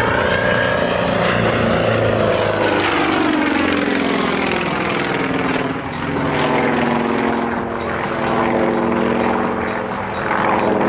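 Single-engine propeller aircraft flying an aerobatic display. The engine and propeller note glides down and up repeatedly as the plane manoeuvres and passes.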